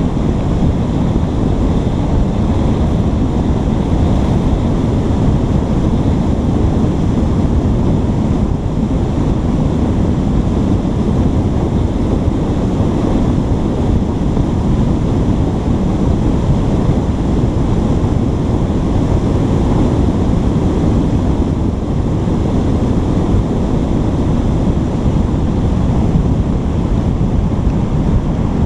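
Steady, loud, low rumbling wind noise buffeting a GoPro's microphone.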